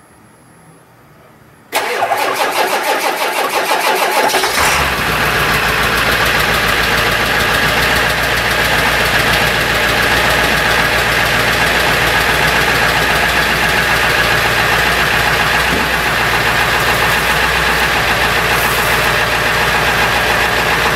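1999 Ford F350 Super Duty's 7.3 L Power Stroke V8 diesel cold-starting: the starter cranks for about three seconds, the engine catches and then runs at a steady, rough idle. It is not firing on all cylinders, which the owner puts down to worn glow plugs that fail to light every cylinder in the cold.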